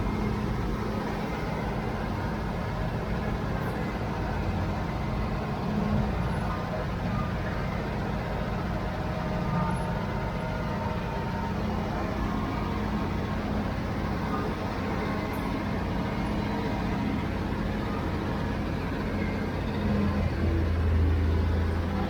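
Diesel engine of heavy construction machinery running steadily, briefly pulling harder near the end.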